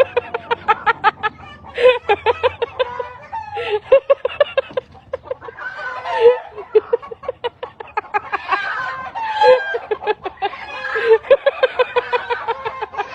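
Animal calls: runs of short, quick pulsed calls, several a second, broken by a few longer cries that rise and fall in pitch.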